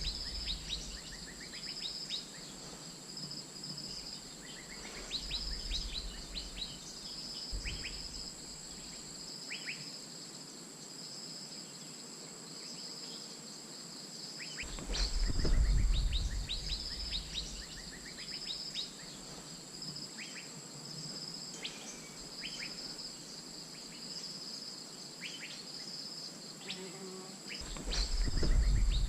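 Steady insect chorus with a high drone and a pulsing high trill, over which short sharp bird chirps sound now and then, typical of Asian fairy-bluebird calls. Two low rumbles come through, one about halfway and one near the end.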